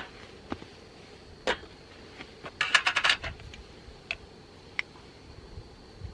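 Scattered sharp clicks and light clatter, with a quick run of clicks about two and a half seconds in and single clicks before and after.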